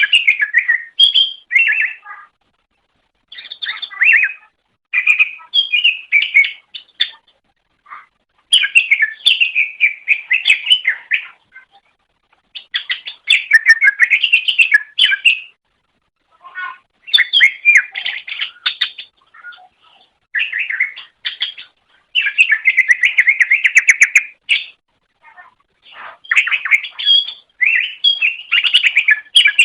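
Cucak ijo (green leafbird) singing: bursts of fast, chattering, warbling phrases, each a second or three long, with short silent pauses between them.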